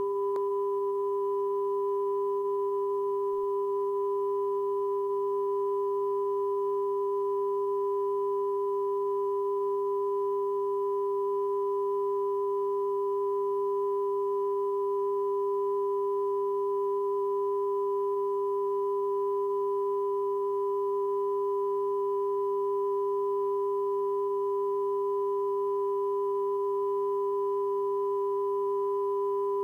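Steady electronic test tone recorded at the start of a VHS tape, a held pure pitch with a fainter higher tone above it, unbroken and unchanging in level.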